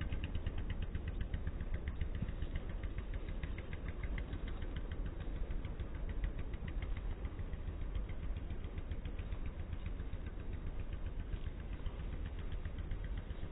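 A motor vehicle's engine running close by: a steady low rumble with a fast, even ticking on top that is clearest in the first half and fades later.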